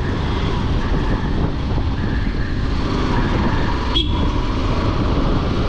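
Motorcycle engine running at road speed with wind rushing over the microphone, a steady rumble with a short sharp click about four seconds in.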